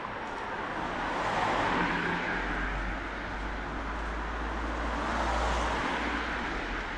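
Cars passing on a rain-wet street, their tyres hissing on the wet road. The hiss swells twice, about two seconds in and again about five seconds in, with a low engine rumble between.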